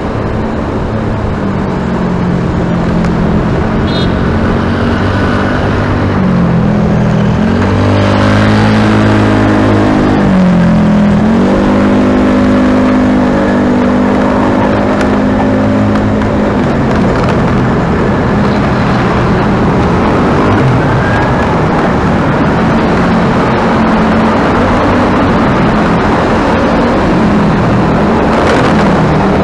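A motor vehicle engine running while under way, over steady road and wind noise. Its pitch dips and climbs again twice between about 6 and 12 seconds in, then sinks back into the noise.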